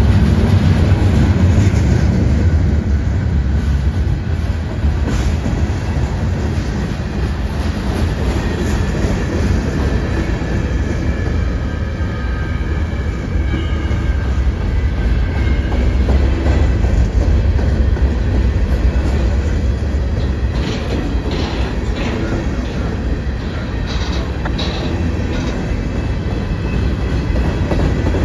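Train passing close by: a steady, loud rumble of wheels on the rails that runs without a break, with faint high squeal lines in the middle.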